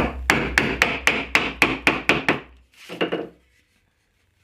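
A rapid run of about ten even knocks, about four a second, tapping a pine piece over until it sits flush, then one softer knock.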